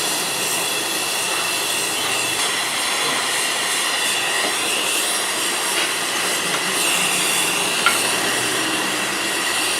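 A machine running steadily, a high whine over an even hiss, with one sharp click near the end.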